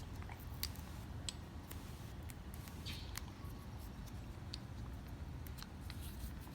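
Scattered light clicks and taps from handling the small tie-down anchor parts as they are fitted into the bed-rail hole, over a low steady background rumble.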